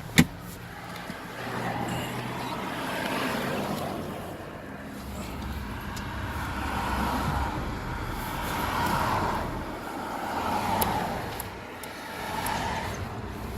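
Road traffic passing outside, a steady rumble that swells and fades as vehicles go by. A sharp click comes just after the start.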